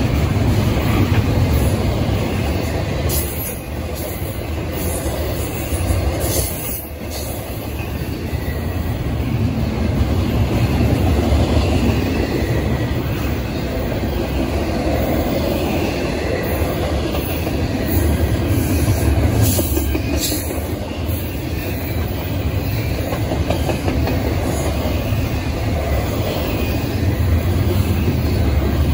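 Double-stack container freight train passing close by: a steady low rumble of its well-car wheels rolling on the rails.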